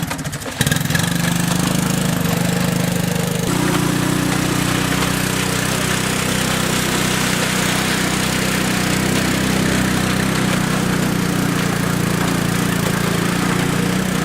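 An ATC three-wheeler's engine running steadily while dragging a heavy log, its note stepping up about three and a half seconds in.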